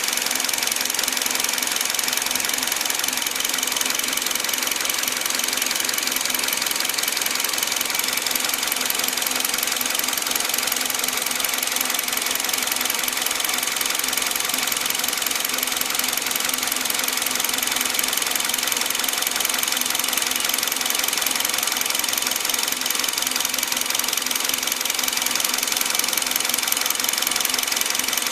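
2013 Hyundai i20 engine idling steadily, with a fast, even ticking clatter over its running sound.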